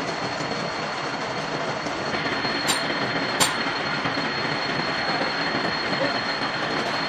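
Milling machine cutting gear teeth: a steady metal-cutting noise with a constant high whine, and two sharp clicks about three seconds in.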